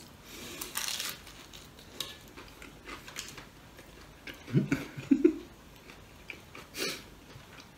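Close-up eating sounds: a man biting and chewing a fried bean-sprout spring roll and rice, with light clicks of fingers and food against a plate. Two short vocal murmurs come about halfway through.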